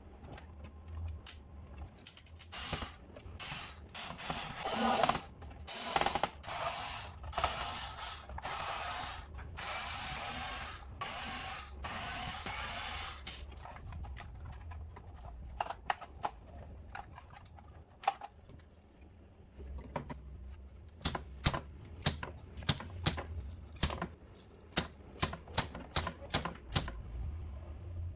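Hand work on a DJ controller under repair: for about thirteen seconds a series of rubbing, scraping strokes, then a run of small sharp clicks and ticks.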